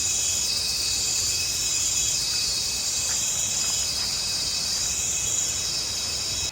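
Chorus of insects, likely cicadas, shrilling steadily and swelling and fading in waves about every second and a half.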